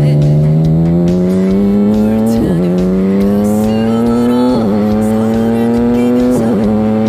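BMW K1600B inline-six motorcycle engine through a Remus exhaust, accelerating through the gears. The pitch climbs steadily, dips briefly at three upshifts (about two and a half, four and a half and six and a half seconds in) and climbs again after each.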